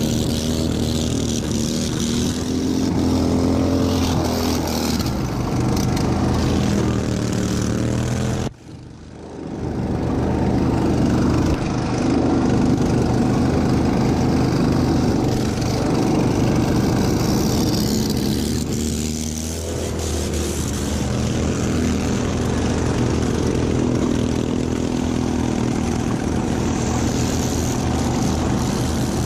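Racing lawn mower tractor engine running hard, its revs rising and falling as it is driven. About eight seconds in the sound drops away sharply and comes back within a couple of seconds, and the revs sag and pick up again a little before the twenty-second mark.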